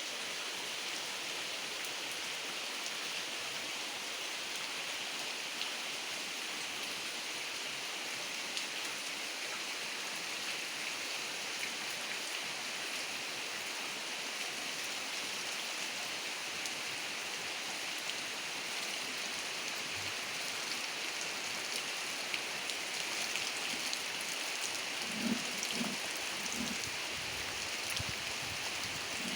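Steady heavy rain falling, an even hiss with scattered drop ticks. A few brief low sounds break in near the end.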